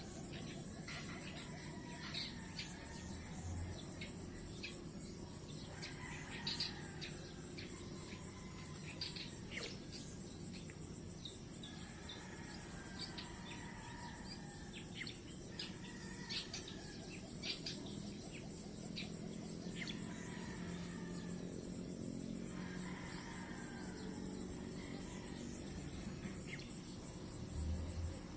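Steady high-pitched drone of insects, likely crickets, with many short bird chirps and tweets scattered throughout.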